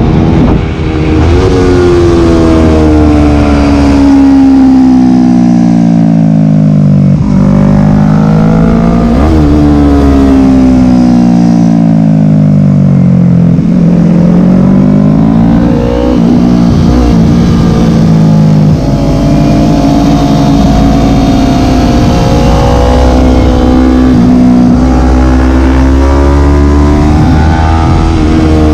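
A Yamaha sportbike engine at track speed, heard from on the bike. Its pitch falls in several long slides with quick jumps back up as the rider brakes and downshifts into corners, then climbs and holds high as it pulls out. Steady wind rumble on the microphone runs underneath.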